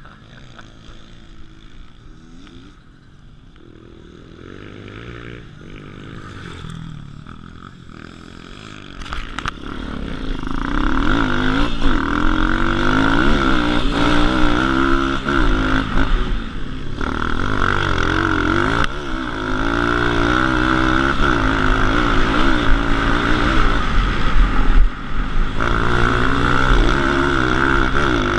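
140 cc pit bike's single-cylinder four-stroke engine, running low and fairly quiet for the first several seconds, then much louder from about ten seconds in, its pitch rising and falling again and again as the throttle is worked.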